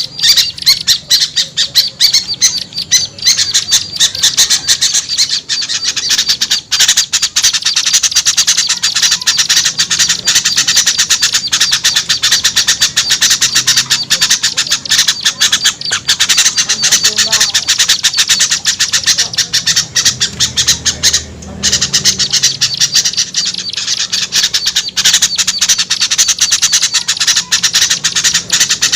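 A noisy, continuous chorus of small songbirds chattering and squawking in rapid notes, a mixed lure call of the kind used to draw small birds down. It drops out briefly about 21 seconds in.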